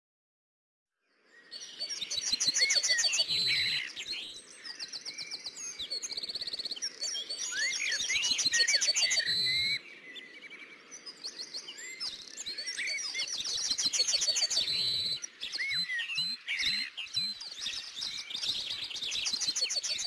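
Songbirds chirping and singing, several overlapping calls of quick trills, whistles and swooping chirps, starting about a second in.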